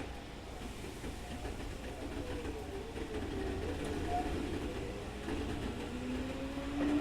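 Keikyu 2000 series electric train heard from inside the car, running with a low rumble and a traction motor and gear whine. Near the end the whine rises steadily in pitch as the train speeds up. It is the strong whining "jet sound" this car is known for as an unusual-noise car.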